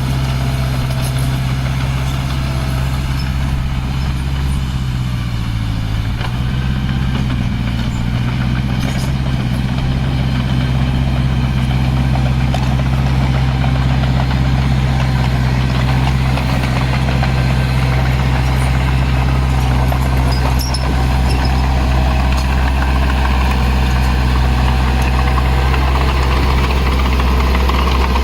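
Diesel engine of heavy earthmoving equipment running steadily, its pitch dipping briefly about five seconds in and rising a little afterwards.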